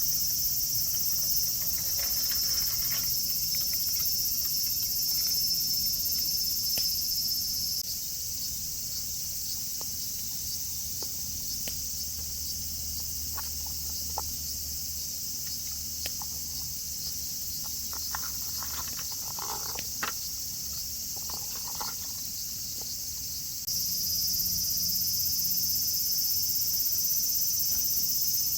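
A dense, steady high-pitched chorus of insects chirring, which drops quieter about eight seconds in and comes back near the end. Scattered faint clicks and ticks sound in the middle.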